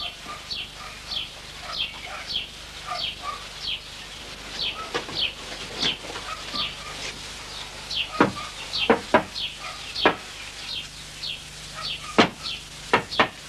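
Birds chirping: short high calls that fall in pitch, about two a second, with several louder sharp calls or knocks from about eight seconds in.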